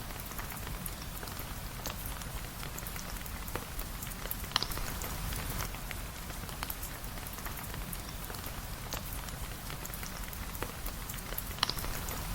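Steady rain falling on a surface, with a dense patter of small drips. Two louder sharp pops stand out, one about four and a half seconds in and one near the end.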